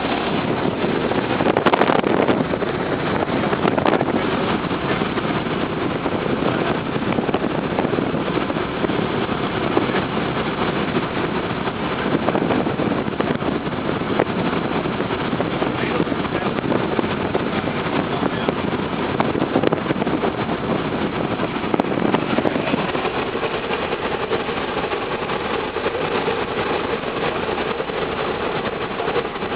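Cessna 172's piston engine and propeller running steadily with airflow noise, heard from inside the cabin in flight. About three-quarters of the way through, the engine note changes and a steadier hum settles in.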